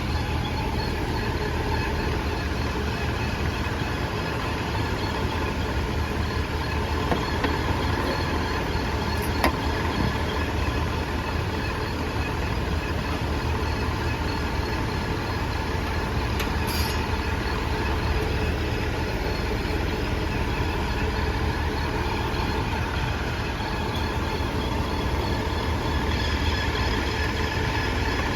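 2018 Audi A5 quattro drivetrain running steadily, a constant mechanical drone with a faint steady whine over it. The whine comes from a worn driveshaft center support bearing, which the technician says means the driveshaft must be replaced.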